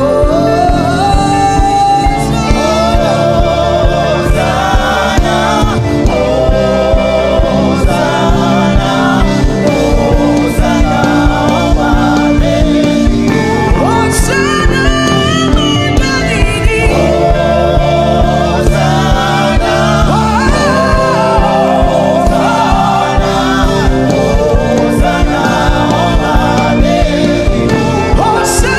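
Gospel song: sung vocals over a sustained keyboard-style backing with a steady beat.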